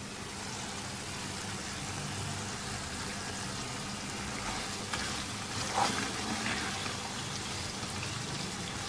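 Chicken pieces in an oily masala gravy bubbling and sizzling in an open pan as the added water cooks down, with a spatula stirring and scraping through it, a few scrapes standing out about five to six seconds in.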